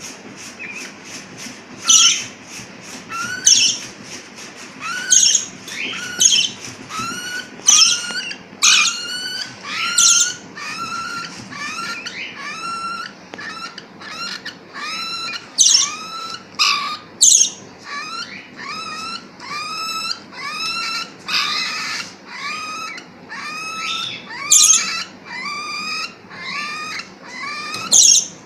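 Parrot chicks begging during hand-feeding: a steady run of short calls, each sweeping up in pitch, about one or two a second, some much louder than others, with one harsher rasping call past the middle.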